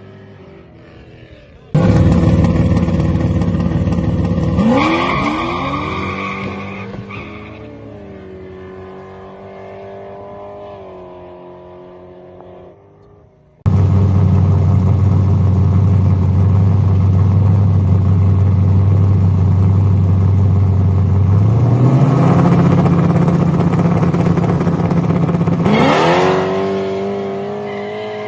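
Drag-racing street cars' engines at full throttle in two loud runs that start abruptly. Engine pitch rises as the cars accelerate away and then fades.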